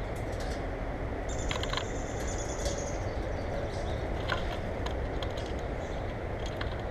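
Small birds at a feeder calling: a thin high whistle lasting about a second, plus scattered short high chirps. A steady low rumble runs underneath.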